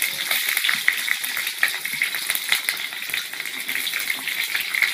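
Stuffed green capsicums (bell peppers) frying in hot oil in a wok: a steady sizzle with frequent small crackling pops of oil.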